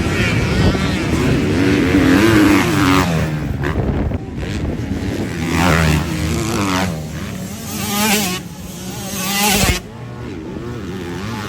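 Motocross bike engines revving, their pitch climbing and falling several times. The loudest rise cuts off sharply about ten seconds in.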